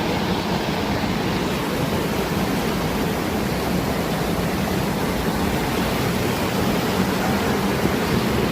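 Rushing water: a mountain stream or falls running loud and steady, with no other sound standing out.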